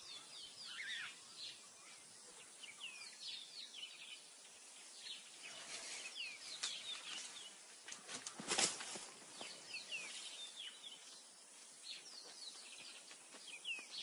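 Faint chirps and short whistles from several wild birds, over a soft hiss of outdoor ambience. A brief louder noise breaks in once, about halfway through.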